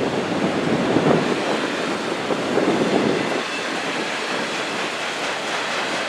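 Freight train cars rolling past: a steady rumble of steel wheels on rail, with two louder swells in the first half.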